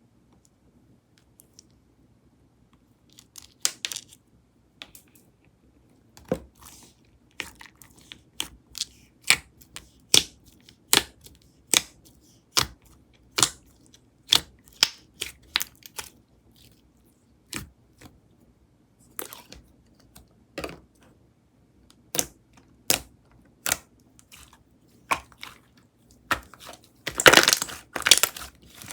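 Slime being pressed and poked by hand, giving sharp clicking pops about once a second, then a denser run of crackling near the end.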